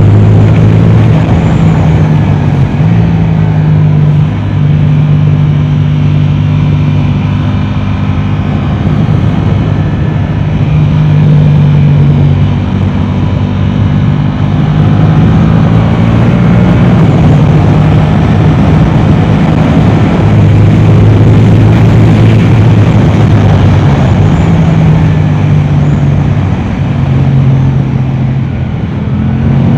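Yamaha R7's 689 cc parallel-twin engine through an Akrapovic exhaust, running hard at speed on a race track. It is loud throughout, and its pitch steps up and down repeatedly as the bike is accelerated, shifted and slowed.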